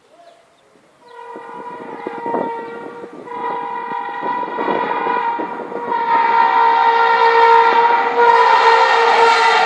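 Indian Railways locomotive horn sounding one long continuous blast over the rumble of the train. It starts about a second in and grows steadily louder, and its pitch dips slightly near the end.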